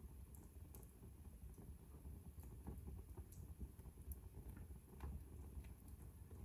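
Wood fire in a fireplace crackling faintly: scattered small pops and snaps over a soft, low rumble of the burning fire.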